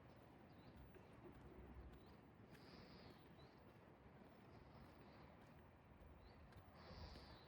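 Faint early-morning outdoor ambience: a low steady rumble with a few short, high bird chirps, loudest about three seconds in and again near the end, and soft scattered clicks of footsteps.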